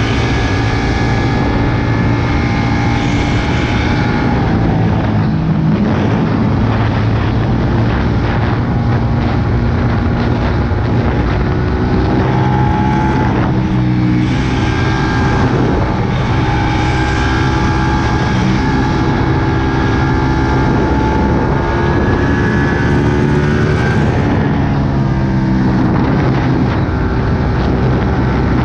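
Ducati Panigale 959's Superquadro V-twin engine running under way at fairly steady revs, heard from the rider's position. It holds an even note for several seconds at a time, with a few breaks where the revs change, once about four seconds in, again around twelve seconds and again near the end.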